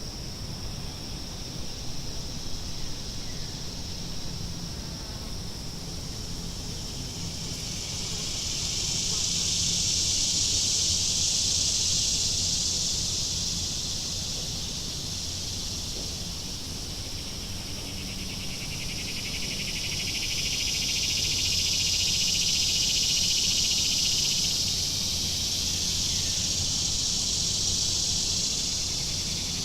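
Chorus of cicadas buzzing, swelling louder twice and easing back between, over a low background rumble.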